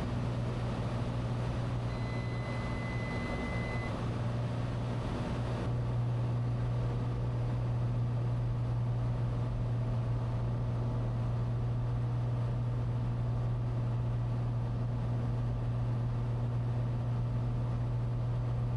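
Cessna 182T's six-cylinder engine and propeller droning steadily in the cockpit during the final approach. A steady high beep-like tone sounds for about two seconds early on, and about six seconds in the drone gets slightly louder and steadier.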